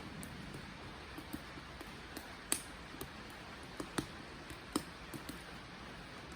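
Wood fire burning with a steady soft hiss, broken by small crackles and a few sharp pops, the loudest about two and a half seconds in and two more around four and five seconds in.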